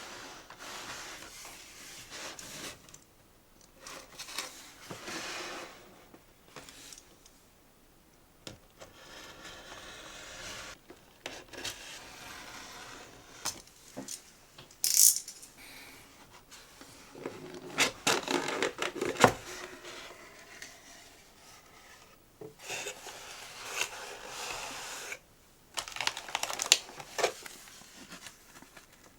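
Snack packaging and box being handled up close: stop-start rustling, rubbing, scraping and tearing of wrappers and cardboard, with sharp clicks and taps. The busiest stretch comes a little past the middle.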